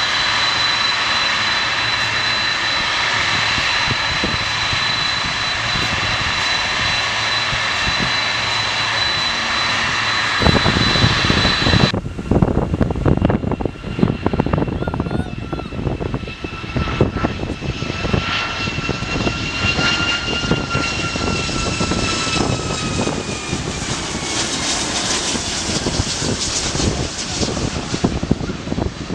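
Jet airliner engines: a steady whine with a high held tone, then about twelve seconds in, after a sudden change, a rougher rumble whose whine falls slowly in pitch as the aircraft passes.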